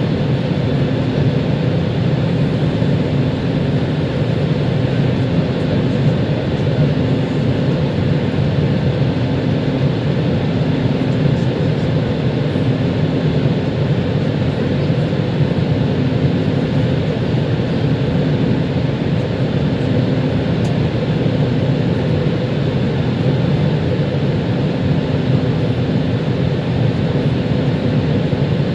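Steady cabin noise inside an Airbus A320 airliner: a continuous rush of jet engine and airflow noise, with a low hum that fades in and out.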